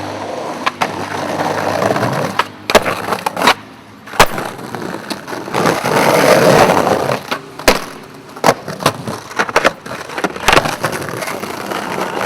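Skateboard wheels rolling on pavement, swelling and fading, with a dozen or so sharp wooden cracks of the board striking the ground.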